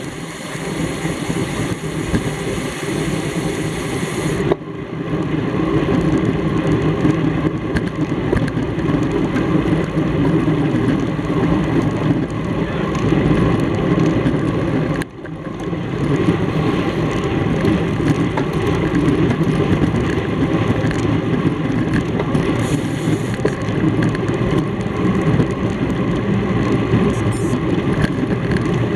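Steady rushing wind and road noise on a racing bicycle's onboard camera microphone at race speed, cut off briefly twice, about four seconds in and again midway.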